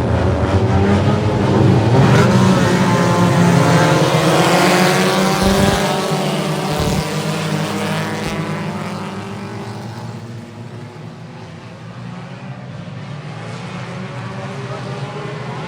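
Race car engines running hard on a dirt track. Loudest through the first half, then fading away a few seconds in and slowly building again near the end.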